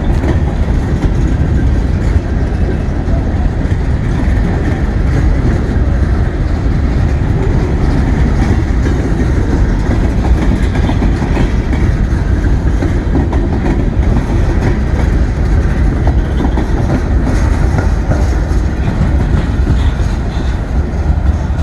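Norfolk Southern freight train's cars rolling past close by: a loud, steady rumble of steel wheels on the rails.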